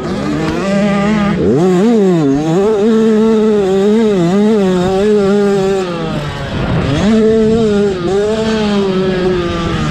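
Motocross dirt bike engine running hard, its pitch rising and falling constantly as the throttle is worked. There is a sharp rev-up about one and a half seconds in, and a drop and climb again around six to seven seconds in.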